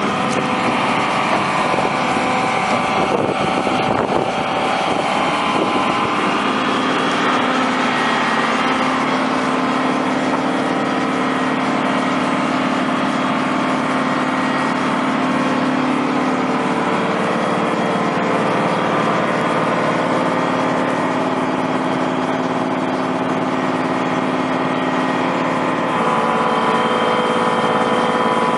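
Engine running steadily, its pitch stepping up or down a few times.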